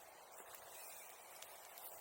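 Wood bonfire crackling faintly: a few small sharp ticks, about half a second in, near one and a half seconds and near the end, over a quiet hiss.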